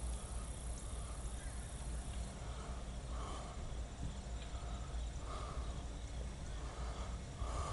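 Diesel locomotives of a loaded coal train approaching slowly, a steady low engine rumble heard from a distance, with a faint pulse recurring about once a second.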